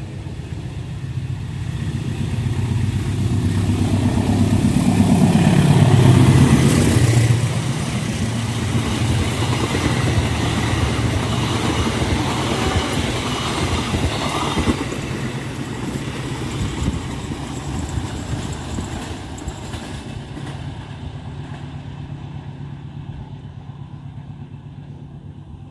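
Kutojaya Selatan passenger train, hauled by a diesel locomotive, passing close by. The locomotive's engine rumble builds to a peak about six seconds in. The carriages then rattle and clack over the rails until about fifteen seconds in, and the sound fades away as the train leaves.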